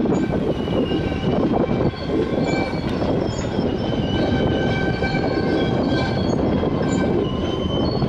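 Freight cars of a Wisconsin and Southern train rolling past: a steady rumble of steel wheels on rail, with high wheel squeals that come and go.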